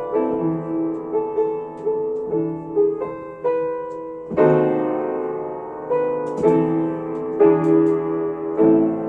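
Solo piano playing a slow, gentle melody over chords, with a loud chord struck about four seconds in and several more firm chords in the second half.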